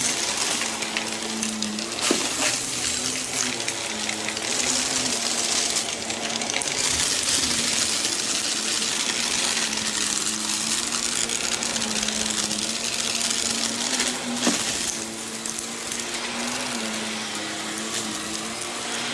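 Upright vacuum-type floor cleaner running over a rug: a steady motor hum that rises and falls slightly in pitch as the machine is pushed back and forth, over a strong rush of suction air, with a sharp knock about two seconds in and another near the end.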